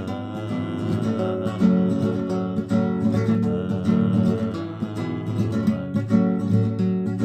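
Acoustic guitar strumming chords in a steady rhythm, an instrumental passage of the song's accompaniment without singing.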